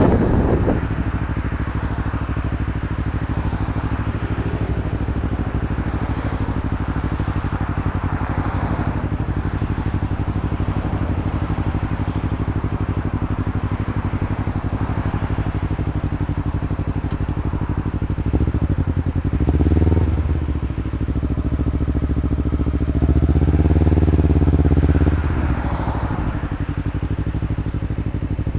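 Kawasaki Ninja 250R parallel-twin engine idling steadily, its revs rising briefly twice in the latter part, once just past the middle and again a few seconds later.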